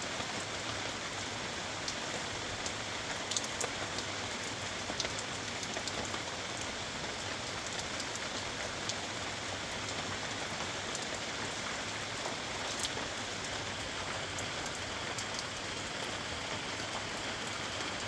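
Steady rain falling in a redwood forest, an even hiss with scattered, individually audible drops striking close by.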